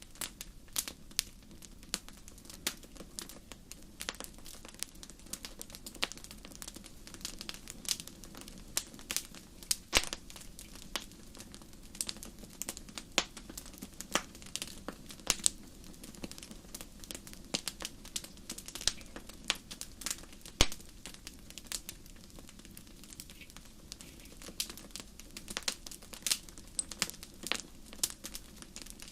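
Wood fire burning in a fireplace, crackling and popping in quick, irregular clicks over a low steady rumble of flames.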